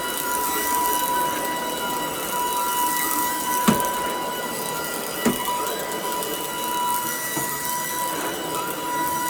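Shark DuoClean cordless stick vacuum running steadily: an even motor whine over a rushing airflow hiss, with two sharp clicks a second and a half apart in the middle.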